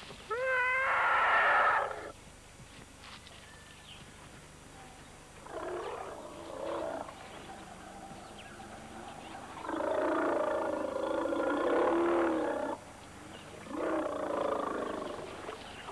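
African elephants calling at a water hole: a high, pitched trumpet near the start, then rough bellowing calls, the longest lasting about three seconds, as the calves jostle for the last water in the dug holes.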